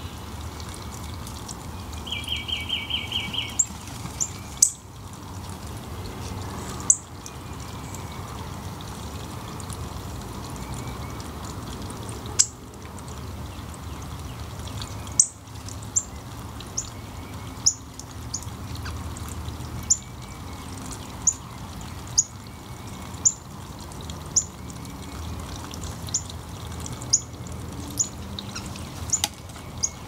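Small bird calling with sharp, high chips, sparse at first and then about one a second, after a brief rapid trill about two seconds in, over a steady rushing background.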